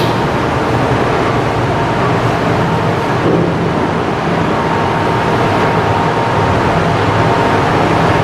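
Marine diesel engine running steadily at a constant speed with a loud, even hum and a faint steady whine.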